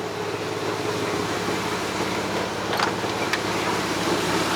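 Lexus IS300's 2JZ-GE inline-six idling steadily, on a car with an exhaust leak. A couple of faint clicks come about three seconds in.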